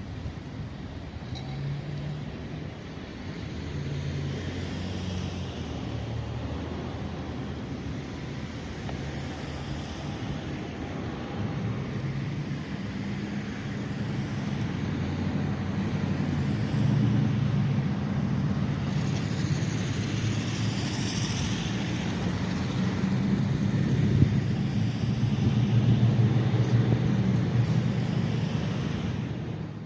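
CSX freight train rolling past, a steady rumble with a low engine drone that grows louder toward the end.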